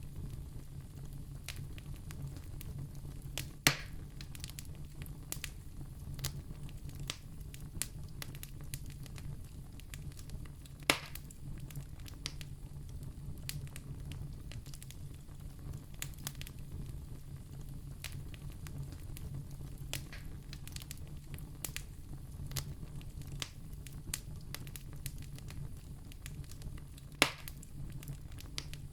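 Campfire crackling: a steady low rumble of burning with frequent sharp snaps and pops, three of them much louder than the rest.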